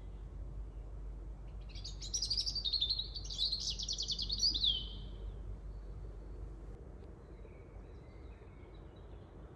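A bird singing a fast, trilling phrase of about three seconds that ends in a falling note, followed by faint scattered chirps, over a steady low background hum.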